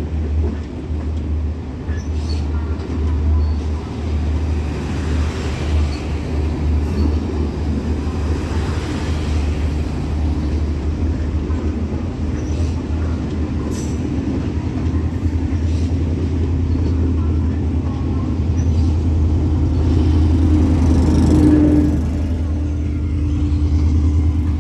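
Class S13 diesel multiple unit pulling out of a station at low speed: a steady low engine drone and wheel-on-rail rumble as its coaches roll past, with occasional clanks, growing louder about 20 seconds in.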